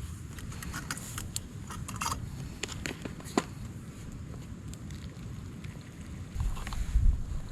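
Wind rumbling on the microphone with scattered light ticks and taps, and a stronger gust about six and a half seconds in.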